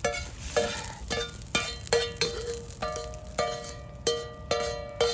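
Metal spatula repeatedly striking a 36 cm iron frying pan during stir-frying of fried rice. There are about two sharp clangs a second at an uneven pace, and each one rings on the same metallic pitches before fading.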